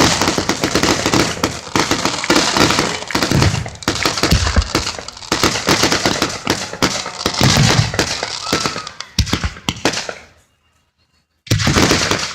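Fireworks display: dense crackling and popping with several deep booms. It dies away about ten seconds in, goes almost silent for a moment, then another loud burst comes in near the end.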